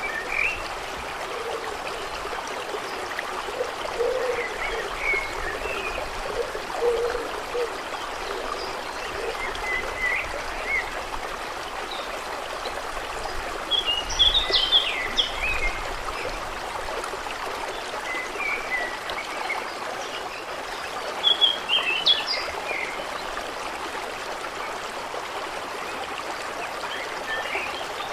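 Steady trickling, flowing water with birds chirping now and then, in short bright clusters about halfway through and again about three quarters of the way in.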